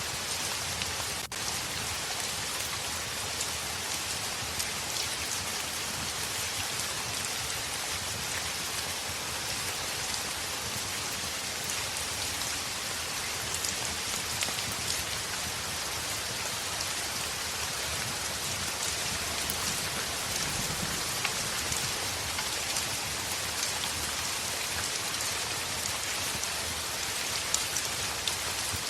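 Heavy rain falling steadily against a window: an even hiss sprinkled with the small ticks of individual drops, with a brief dip in level just over a second in.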